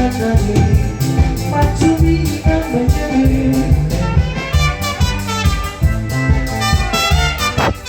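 A live band playing an instrumental passage: drum kit keeping a steady beat under a bass line, with melody instruments on top.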